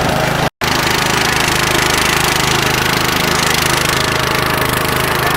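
Riding lawn tractor's small engine running steadily under way, a loud drone with a rapid low pulse. The sound cuts out completely for a moment about half a second in.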